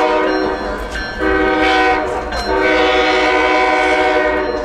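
Passenger train locomotive's multi-note air horn sounding in long blasts, three of them with short breaks between, over a low rumble from the train.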